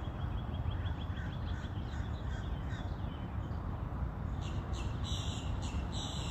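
Birds calling: a quick run of short chipping notes, then several harsh, raspy calls near the end, over a steady low rumble.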